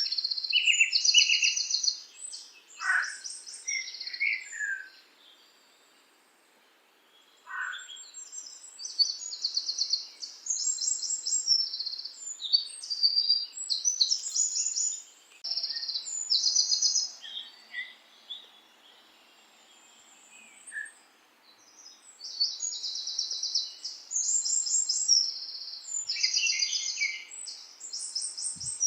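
Songbirds singing: quick repeated chirps and high trills, with a couple of downward-sliding whistles. The song pauses for a few seconds about five seconds in and eases off again around twenty seconds.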